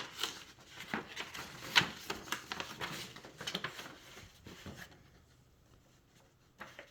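Packaging and small items being handled: a dense run of rustles and light clicks for about five seconds, then quieter, with one more click near the end.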